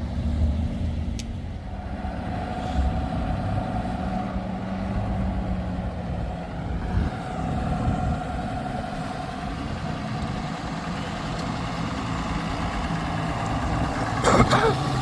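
Motor vehicle engine running steadily at low revs, with a brief louder sound near the end.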